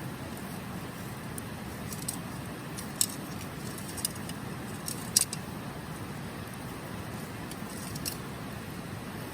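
Wood campfire crackling, with scattered sharp pops from the burning firewood, the loudest about three and five seconds in, over the steady rush of a shallow river flowing over stones.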